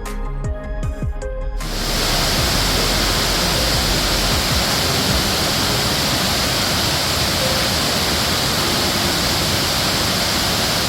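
Waterfall pouring: a loud, steady rush of falling water that sets in sharply after a couple of seconds of background music with a beat.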